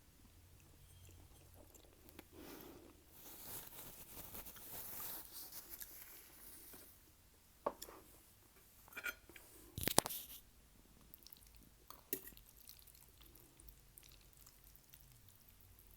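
Close-miked eating of spaghetti: a long wet slurp of noodles a few seconds in, then chewing with a few sharp wet smacks and clicks of the mouth.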